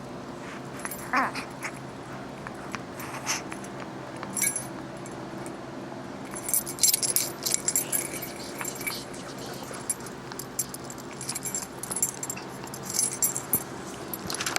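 A dog at play with metal jingling and light clicking in bursts, and a brief high squeak about a second in.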